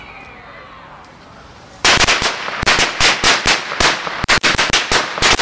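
Fireworks going off in a rapid, irregular run of loud sharp bangs, several a second, the way a firecracker string goes. The bangs start about two seconds in and come closer together near the end.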